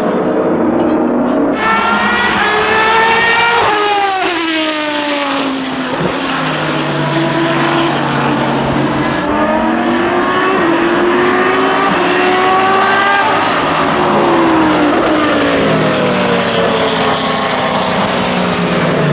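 Dallara SP1's Judd V10 racing engine at speed, its pitch climbing and falling repeatedly through gear changes and corners. About three and a half seconds in, a climb ends in a sharp drop, followed by a long fall. Further long rises and falls follow.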